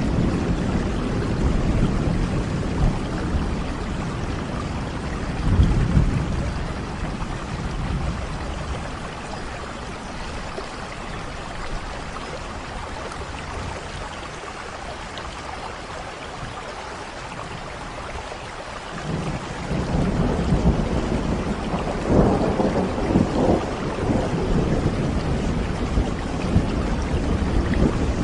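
Steady rain with rolling thunder: low rumbles in the first few seconds die away to rain alone through the middle, then thunder rumbles build again about two-thirds of the way through.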